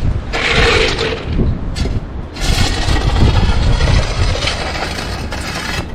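Strong wind buffeting the microphone: a steady low rumble with gusts of hiss, the biggest about a second in and from about two and a half to four seconds in.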